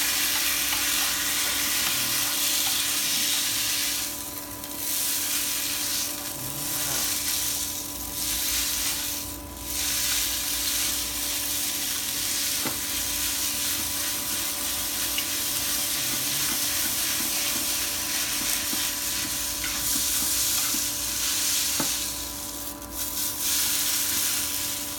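Soaked glass noodles sizzling in hot oil in a nonstick pan as they are stirred and turned with a wooden spatula and chopsticks. The sizzle drops back briefly a few times.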